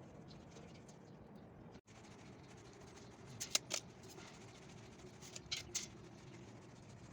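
Short, quick scratching strokes of hand drawing or marking measurements, in two brief groups about three and a half and five and a half seconds in, over a faint steady hum.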